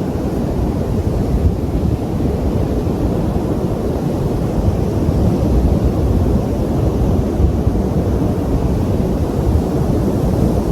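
Wind buffeting the microphone: a loud, uneven low rumble that never lets up.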